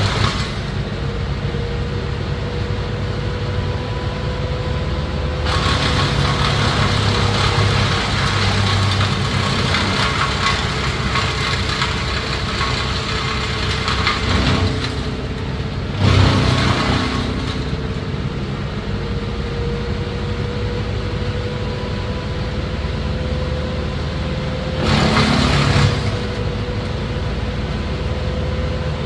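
Engine-powered tree-cutting machinery running steadily with a constant hum, breaking into louder, harsher noise for a long stretch a few seconds in and twice more briefly later, as it works on the wood.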